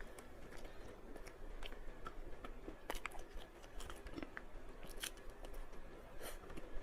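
A person chewing food close to the microphone, with scattered sharp crunchy clicks, the loudest about three and five seconds in.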